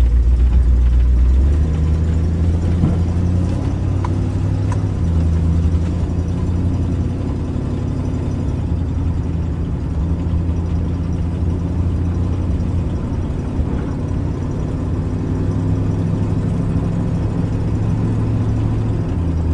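1971 Ford Torino GT's 302 V8 and automatic transmission heard from inside the cabin on a drive, the engine note stepping up and down in pitch several times as the car pulls through the gears. The exhaust leaks at the rusted tailpipes.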